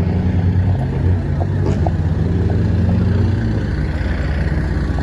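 A motor vehicle's engine running steadily with a low hum, under a haze of road noise.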